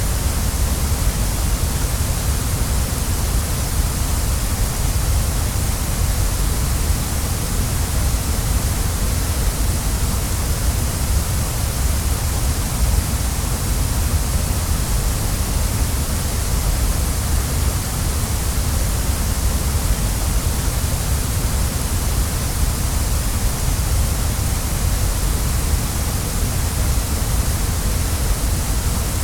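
Waterfall rushing steadily, a continuous even roar of falling water with a deep low rumble and a bright hiss.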